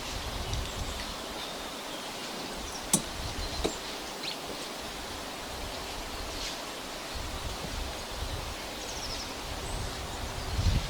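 Forest ambience: a steady outdoor hiss with faint, scattered bird chirps. Two sharp knocks come about three seconds in, and a low rumble rises near the end.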